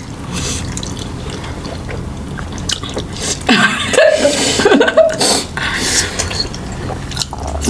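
Wet chewing and mouth sounds of someone eating a big mouthful of chicken momo dumplings, with a muffled voice through the full mouth in the middle.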